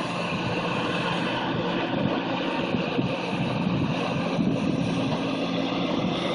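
Tractor engine running steadily under work, a continuous mechanical drone with some wind on the microphone.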